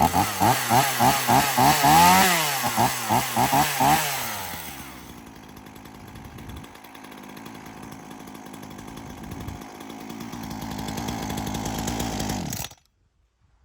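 Ryobi RY3716 two-stroke chainsaw blipped quickly on the throttle, about two to three revs a second with one longer rev, then settling to a steady idle before it cuts off suddenly near the end. The warmed-up saw runs well after its cold start.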